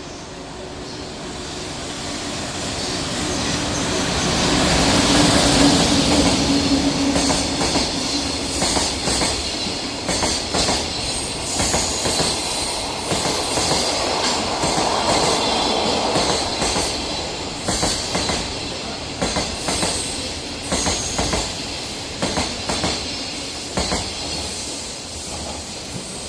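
JR Freight EF200 electric locomotive hauling a freight train past at speed. It grows louder to a peak about five seconds in, then the long line of wagons follows with a rhythmic clickety-clack of wheels over rail joints.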